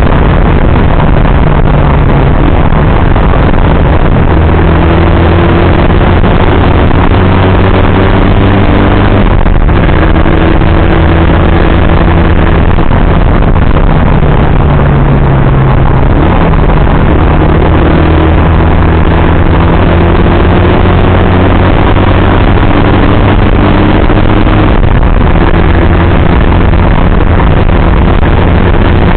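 Motorcycle engine under way: its note slowly climbs, then steps down several times as gears change. Loud wind rush on the microphone runs underneath.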